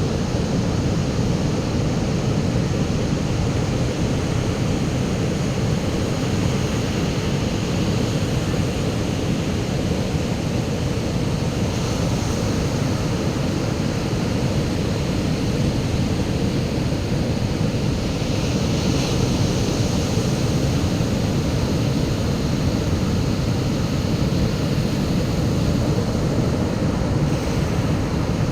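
Steady low noise that holds an even level throughout, without breaks or distinct events.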